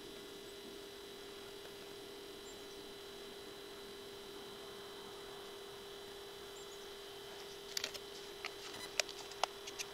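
A steady, faint electronic hum, a low tone with a higher whine above it, and a few sharp clicks near the end.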